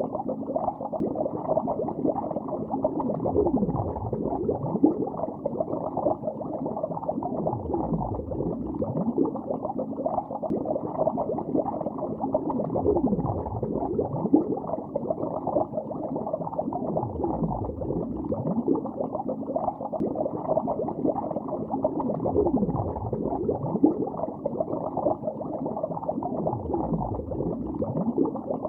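Underwater bubbling, heard as a dense, dull, muffled bubbling with no treble. A low swoosh swells and falls about every four to five seconds.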